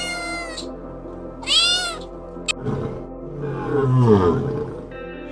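Cat meowing twice, short wavering cries, followed a second later by a longer, lower call that falls in pitch, over steady background music.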